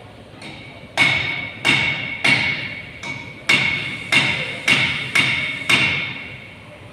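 Eight sharp taps at uneven intervals, each ringing briefly with a metallic tone before fading.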